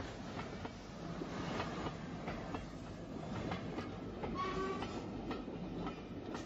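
Steam train running along the line, its wheels clicking irregularly over rail joints, with a short steady tone about four and a half seconds in. The sound drops away abruptly at the end.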